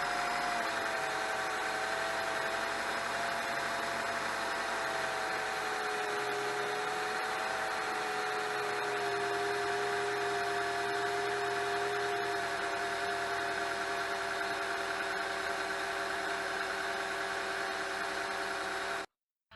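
Honda Step WGN minivan's engine idling steadily, with a faint whine that drifts slowly lower in pitch. It cuts off suddenly near the end.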